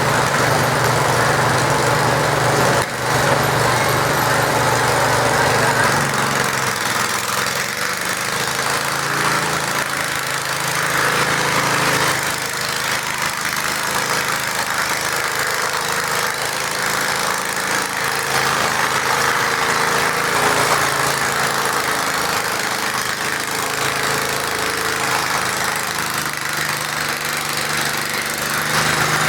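Garden tractor engine running hard under load while pulling a weight sled. Its pitch holds steady for the first few seconds, then wavers.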